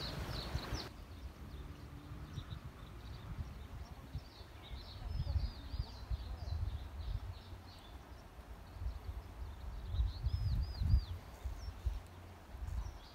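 Small birds chirping in many short, quick calls, some of them small rising-and-falling whistles, over a low uneven rumble that swells a few seconds before the end.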